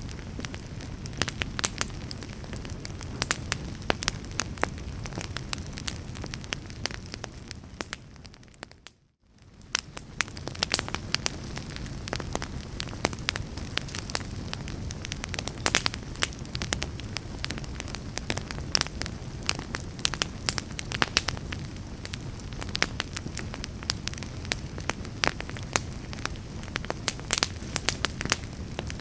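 Wood logs burning in a fireplace: frequent sharp crackles and pops over a low, steady rush of flame. The sound briefly fades out and back in about nine seconds in.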